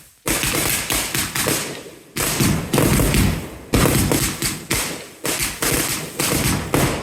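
Fireworks going off in a rapid string of sharp bangs, each fading quickly, in clusters every second or two.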